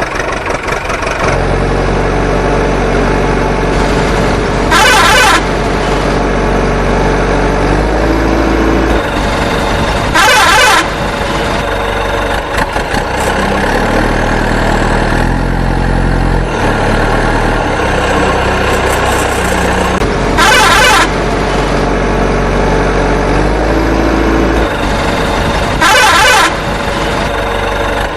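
Truck engine running steadily, with four short, loud horn blasts spread through it.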